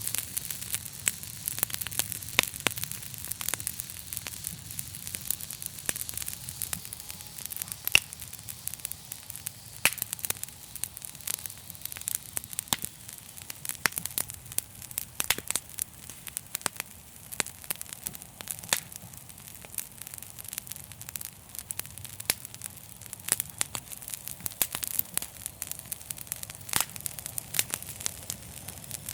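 Wood fire in a fireplace crackling: frequent sharp pops and snaps over a steady hiss and low rumble, with one louder pop about eight seconds in.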